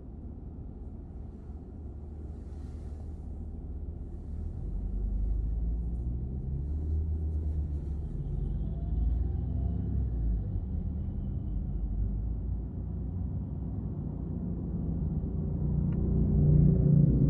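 Low rumble inside a car's cabin while it stands at a red light, the idling engine and road noise, growing louder a few seconds in. Near the end, low sustained tones of background music fade in.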